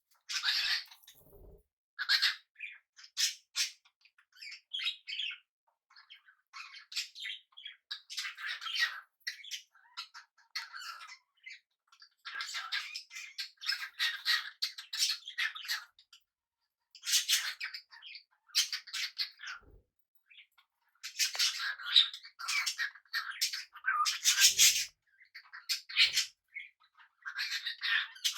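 Pet budgies and cockatiels chirping and chattering in short bursts with occasional squawks, the calls coming in clusters with brief pauses between.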